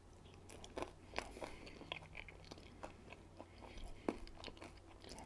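Faint, close-miked chewing of a guacamole and candied bacon burger slider: soft, irregular mouth clicks, the clearest about a second in and again about four seconds in.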